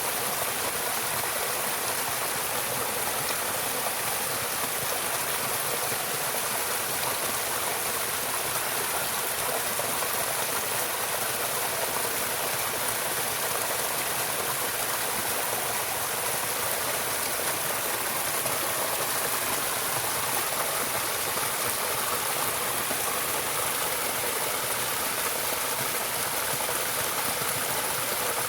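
Steady rushing of flowing water, like a stream over rocks, with an even high hiss and no breaks or changes.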